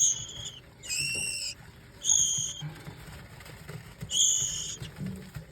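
Bird giving four short, high, squeaky calls of about half a second each, spaced unevenly.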